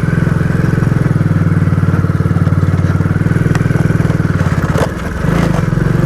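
Motorcycle engine running steadily under way, easing off briefly about five seconds in, with a few light clicks.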